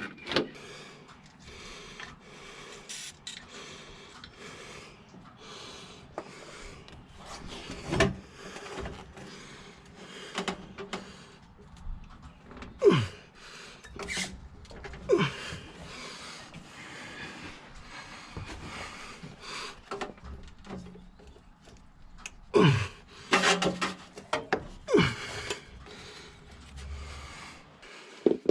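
Intermittent clanks, knocks and scrapes of tools and metal exhaust parts being fitted and bolted up, with a few short sounds that fall in pitch.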